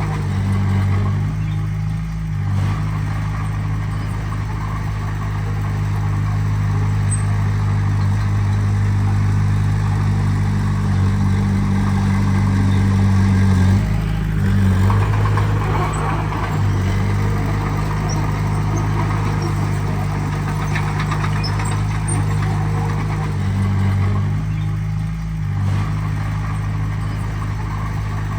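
Heavy diesel engine of earthmoving machinery running steadily. Its note shifts briefly a few times: about two seconds in, around the middle and near the end.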